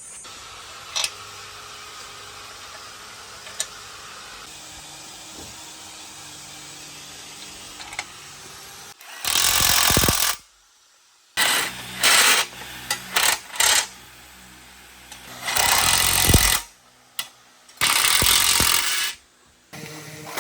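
Power tool run in several loud bursts of a second or so, starting and stopping abruptly, after a quieter stretch of steady workshop hum with a couple of sharp clicks.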